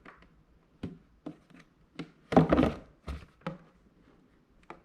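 Hands handling a small plastic blade coffee grinder and its lid: a string of light knocks and clicks, with a louder clatter and rub about two and a half seconds in.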